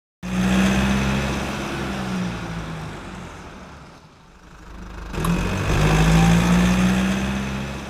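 A car engine running, loud at first and fading away about four seconds in, then swelling up again and fading.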